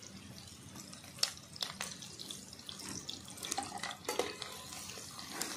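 Chopped onion, green chilli, garlic and ginger sizzling in hot vegetable oil in an iron kadai, a steady frying hiss. A few light clicks and knocks from the ingredients and a metal spatula against the pan.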